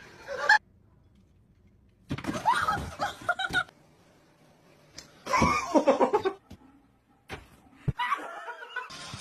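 Laughter in several separate bursts with quiet gaps between them, one burst made of quick repeated pulses.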